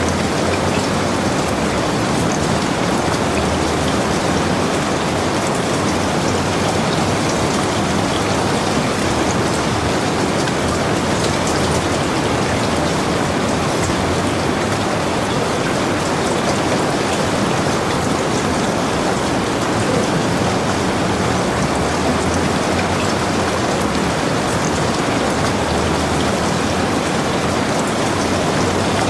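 Heavy rain falling steadily on and around a log cabin, a dense, even hiss of rain with fine scattered drop patter.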